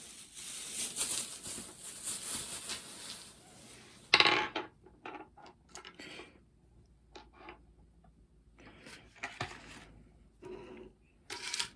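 Candy packages being handled and set down on a table: rustling, then a sharp knock about four seconds in, followed by scattered light taps and clicks as they are lined up.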